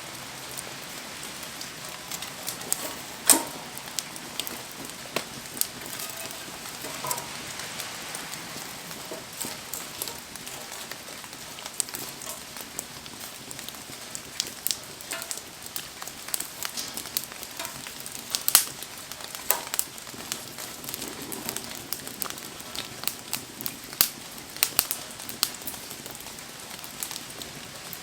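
Wood bonfire crackling and popping in the rain: scattered sharp pops over a steady hiss of rain, two of them louder, about three seconds in and a little past the middle.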